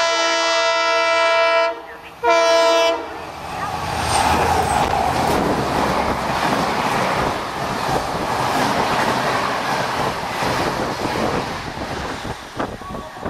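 Indian Railways WDP4 (EMD GT46PAC) diesel locomotive sounding its multi-tone air horn in one long blast and then a short one as it approaches at speed. The locomotive and its train of passenger chair cars then rush past close by with a steady roar and rumble that eases off near the end.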